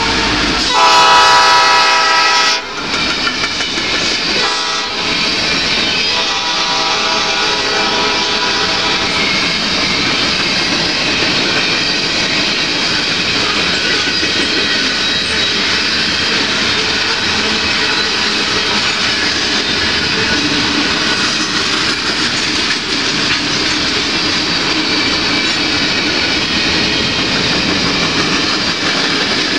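Canadian Pacific freight train passing close by. The locomotive's horn sounds a long blast about a second in, a brief one near five seconds and a fainter longer one after that. The steady rumble and clatter of tank cars and hoppers rolling over the rails runs beneath.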